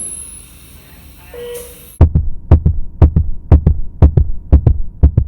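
A baby's heartbeat heard as through a stethoscope, starting about two seconds in: paired low thuds, fast and regular at about two beats a second.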